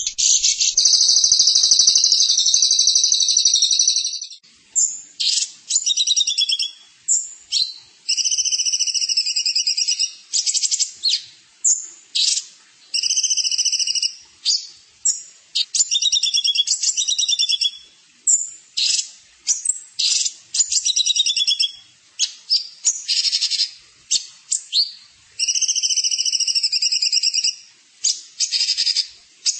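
High-pitched songbird song from a training 'master' recording: rapid buzzy trills and chattering phrases in bursts of one to three seconds, with short gaps between them.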